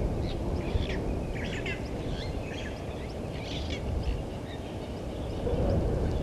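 Birds calling in short chirped and trilled phrases, several in a row through the first four seconds and then fading, over a steady low background rumble.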